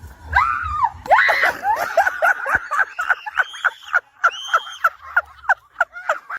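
A voice giving a rapid series of shrill, high-pitched screeching calls, about three a second.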